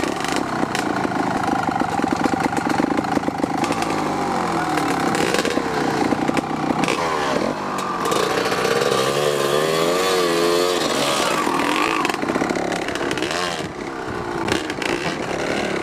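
Dirt bike engine revving on an off-road track, its pitch rising and falling again and again as the throttle is worked.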